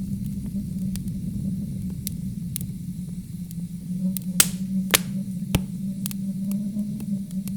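Wood fire crackling, with scattered sharp pops, the strongest two about four and a half and five seconds in, over a low steady rumble of wind.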